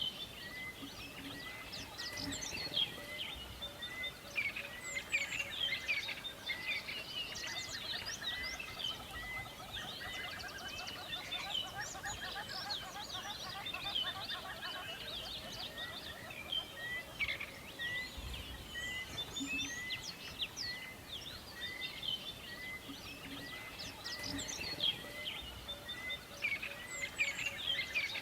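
Chorus of many songbirds chirping and singing in a forest. Through it, one bird repeats a single short note steadily, about three times every two seconds.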